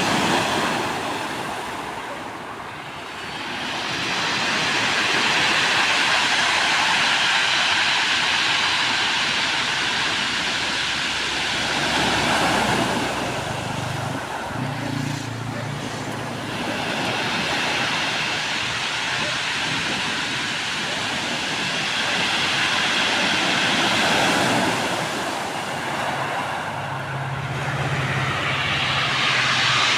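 Ocean surf breaking and washing up the beach, the roar of the water swelling and ebbing in long surges about every twelve seconds.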